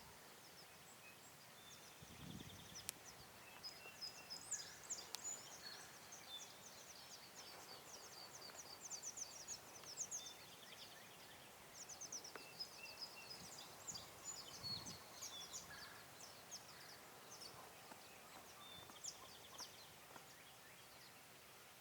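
Faint songbirds chirping and trilling, many short high calls overlapping, with two brief low sounds about 2 seconds and 15 seconds in.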